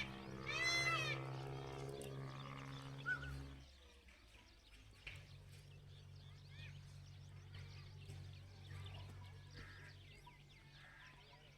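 An animal calling, a strong pitched cry in the first few seconds, then faint chirping over a low steady hum.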